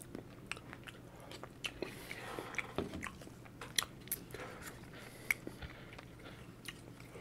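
A person chewing a mouthful of fries close to the microphone: quiet, irregular wet mouth clicks and small crunches.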